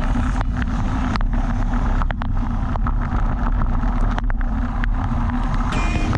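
Heavy wind buffeting a camera microphone on a moving bicycle: a dense, steady low rumble with a faint hum and scattered sharp clicks.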